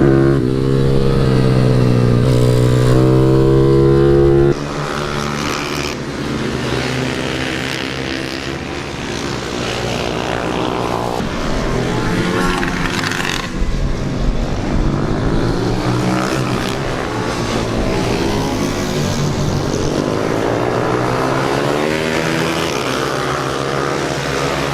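Pit bike's single-cylinder engine at high revs, heard on board during a lap. The revs are held steady for the first few seconds, then drop sharply, and through the rest of the lap they rise and fall again and again with the throttle and gear changes.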